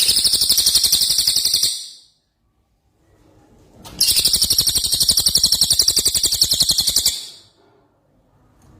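Cucak ijo (green leafbird) giving two loud, very rapid, high-pitched rattling trills, the 'tembakan' (shot) phrases it copies from the cililin. The first lasts under two seconds; the second begins about four seconds in and runs about three seconds.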